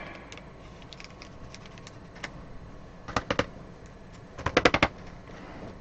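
Light plastic clicks and taps of trading cards and rigid plastic card holders being handled: a couple of clicks about three seconds in, then a quick run of clicks shortly before the end.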